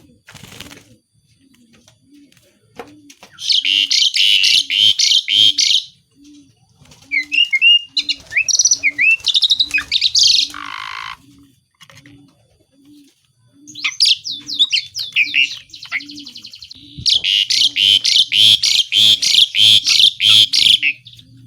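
Asian pied starling singing loudly: two long bursts of rapid, harsh chattering, about three seconds in and again near the end, with whistled rising and falling notes and a buzzy trill between them.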